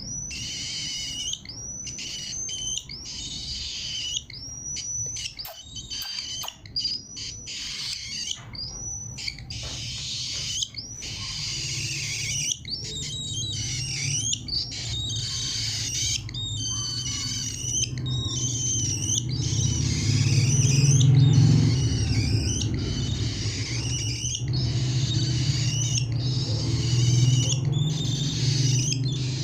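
Cockatiel calling again and again in short, rising-and-falling chirps and squawks. A low hum grows underneath from about halfway through.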